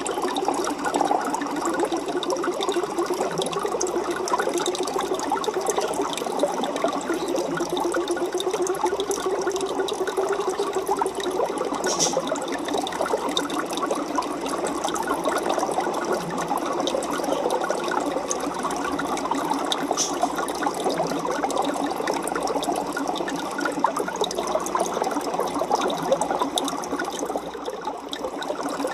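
Aquarium water bubbling and trickling steadily: a dense crackle of small bubbles and splashes, like a tank filter outflow or air stone.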